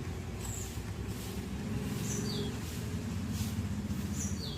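Short high chirps, each dropping from a higher note to a lower one, repeating every couple of seconds over a steady low rumble.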